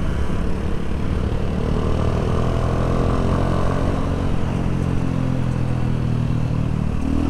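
Small single-cylinder motorcycle engine, about 200cc, running under way over wind rumble; about two seconds in its pitch climbs as it accelerates, then holds steady.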